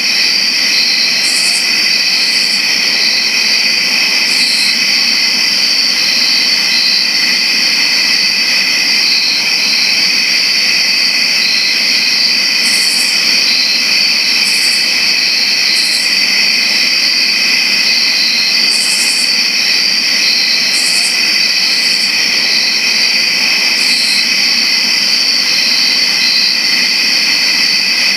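Crickets chirping in a dense, continuous high-pitched chorus, with short, still higher-pitched bursts breaking in now and then.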